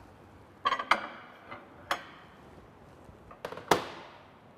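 Several sharp clicks and knocks with short ringing as the casserole and the microwave are handled, the loudest pair near the end.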